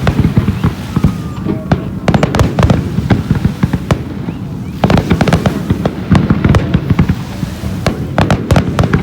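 Fireworks going off in rapid volleys of sharp bangs and crackles over a low rumble, thinning out briefly about halfway through before a fresh dense run.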